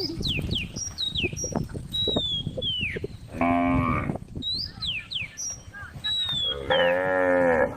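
Cattle mooing twice, a call about three and a half seconds in and a longer one near the end, over repeated short falling bird whistles.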